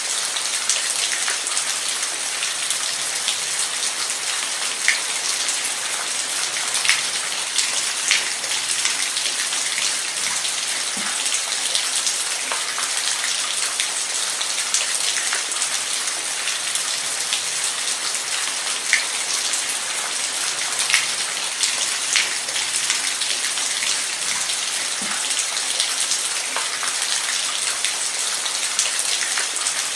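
Steady rain falling, a dense even hiss with individual drops striking a hard surface in sharp irregular ticks.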